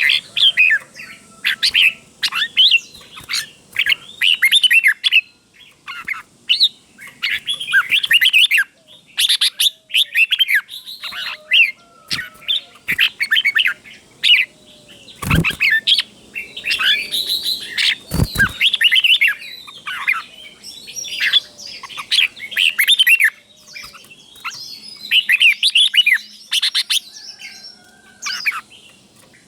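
Red-whiskered bulbul singing, a steady run of short whistled phrases delivered one after another in doubled pairs. Two sharp knocks cut in about halfway through, three seconds apart.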